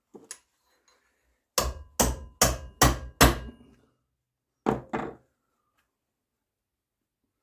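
Hammer blows on metal: two light taps, then a quick run of five loud strikes at about two and a half a second, then two more. The strikes ring faintly.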